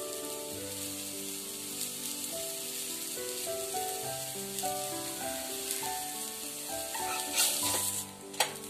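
A mini uttapam sizzling steadily on a hot flat griddle (tawa), under background music of slow stepped melodic notes. Near the end a steel spatula scrapes and knocks against the griddle as it slides under the uttapam to lift it off.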